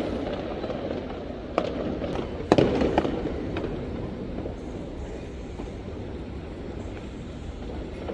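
Fireworks going off: a few sharp bangs in the first half, the loudest about two and a half seconds in, over a continuous rumble of more distant bursts.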